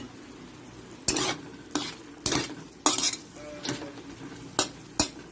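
A cooking utensil stirring pork and chicken in a pan, scraping and knocking against the pan about seven times at uneven intervals, over a low steady sizzle of the meat cooking.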